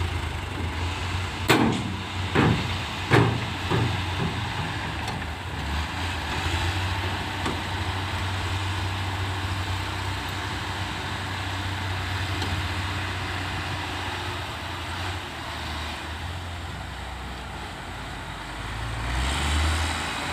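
Heavy diesel earthmoving machinery running steadily, with four sharp knocks between about one and four seconds in and the engine note rising near the end.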